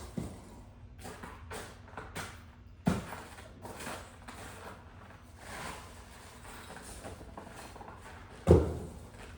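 Hammer striking thick sheet ice: two sharp blows, one about three seconds in and a louder one near the end, with lighter knocks and scrapes between.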